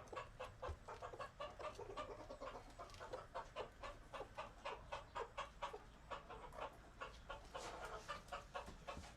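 Domestic hens clucking: a steady run of short, quick clucks, several a second.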